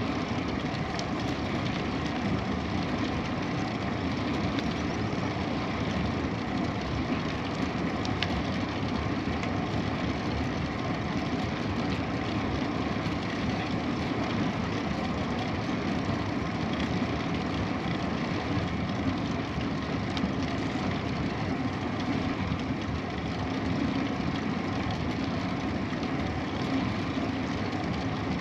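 Steady rushing noise of a bicycle ride, with rolling tyres and wind on the microphone.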